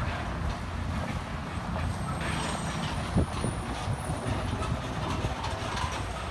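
Low, uneven rumble of a truck engine running, with a single sharp knock about three seconds in.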